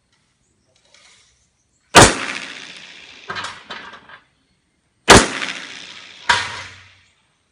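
Pistol shots: two loud reports about three seconds apart, each ringing out as it fades, with three quieter sharp cracks between and after them.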